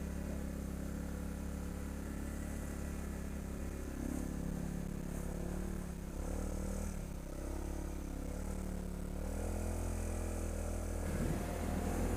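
ATV engine running at low revs, its pitch wavering up and down in the middle before settling back to a steady hum.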